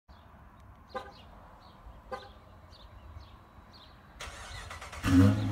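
Two sharp clicks, then the 2016 Dodge Challenger's 5.7L Hemi V8 cranks and fires up loudly near the end through its straight-piped, muffler-delete exhaust.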